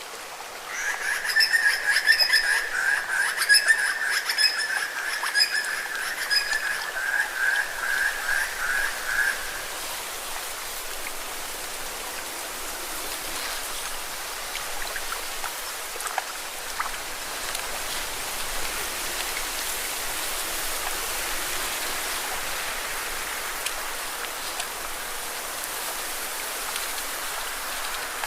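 Lake water washing steadily against rocks. For the first nine seconds or so a loud, rapid animal trill sounds over it, slowing into separate pulses before it stops.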